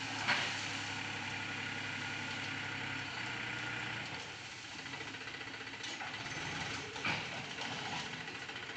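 Mahindra tractor's diesel engine running with a steady low drone that fades away after about three to four seconds. There is a sharp knock near the start and another about seven seconds in.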